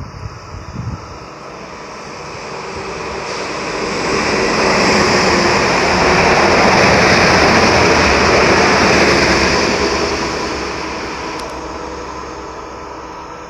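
Passenger electric multiple-unit train passing along the platform: a steady rush of wheels and running gear that swells for several seconds, is loudest about seven seconds in, then fades as it moves off.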